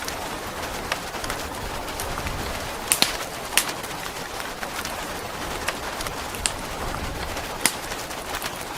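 Steady rain hiss with a wood fire crackling: scattered sharp pops, a few louder ones a few seconds in.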